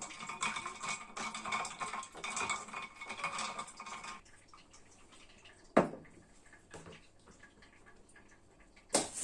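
Pots and dishes clattering and scraping, a dense run of clinks for about four seconds. Then a single sharp knock a little later, and a louder clatter right at the end.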